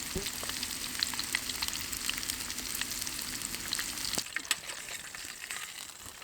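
Fish fillets frying in a small pan: a steady sizzle with many small crackling pops. A lower rushing sound underneath stops about four seconds in.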